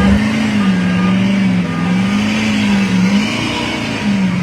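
A car engine held at high revs, its pitch swaying slightly up and down as the throttle is worked.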